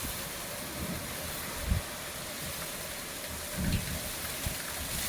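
Heavy rain mixed with hail pelting down in a thunderstorm: a steady hiss, with a few dull low thumps, about two seconds in and again near four seconds.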